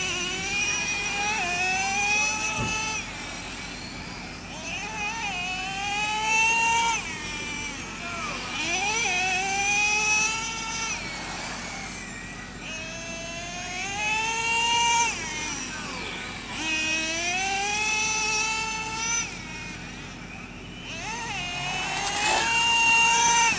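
Radio-controlled race cars lapping an oval track: their motors whine higher along the straight and drop in pitch through the turns, in repeated waves every three to four seconds, with several cars overlapping.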